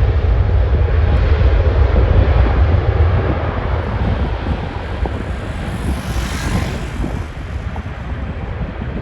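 Airbus A380's four jet engines at takeoff power, a steady loud roar that begins to fade about three seconds in.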